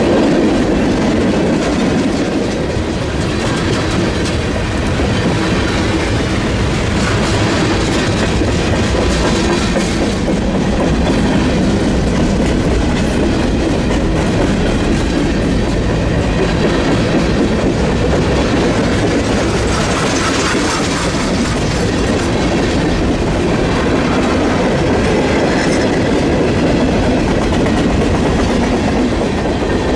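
Freight train's tank cars and covered hoppers rolling past close by: a steady, loud noise of steel wheels on rail, with wheels clacking over the rail joints.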